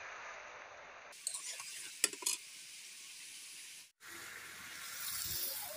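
Chicken and potato pieces sizzling as they fry in a metal kadai while a metal spatula stirs them. A few sharp clicks of the spatula against the pan come between about one and two and a half seconds in.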